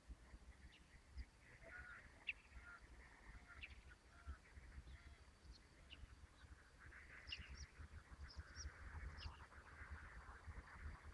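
Faint outdoor ambience: scattered short bird chirps and calls over a low rumble on the microphone.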